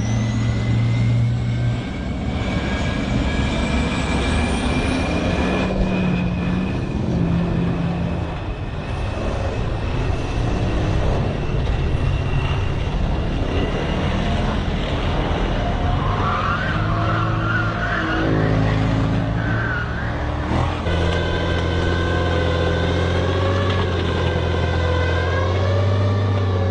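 Airplane engine fitted to a monster truck, running steadily with a deep drone and a high whine that slowly climbs in pitch over the first several seconds.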